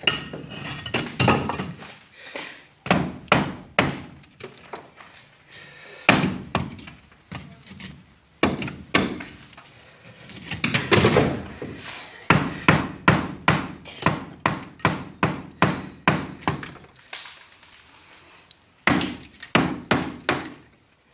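Hammer blows on the brick and mortar of a fireplace being demolished, in runs of quick strikes about three a second with short pauses.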